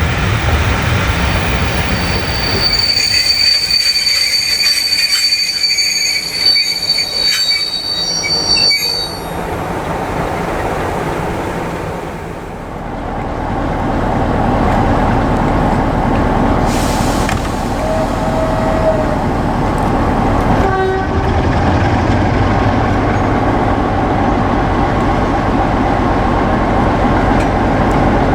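A train running through a station, its wheels squealing shrilly for several seconds on the rails early on, then a steady rumbling run. Later a short horn note sounds, followed a couple of seconds on by a shorter, lower note.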